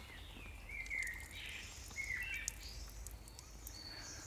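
Faint bird chirps, a few short calls about a second in and again about two seconds in, over a low steady rumble.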